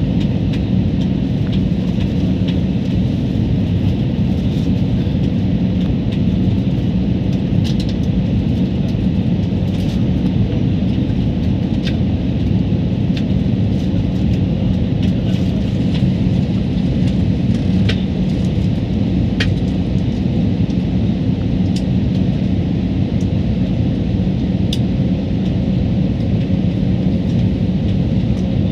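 Airliner cabin noise: the steady roar of the jet engines and rushing air outside the fuselage, with a low steady hum, heard from inside the passenger cabin.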